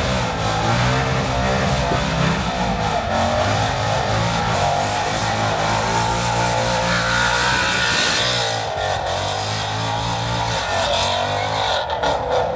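A car engine held at high revs, steady in pitch with a loud rushing noise over it, easing off briefly about eight seconds in and then picking up again.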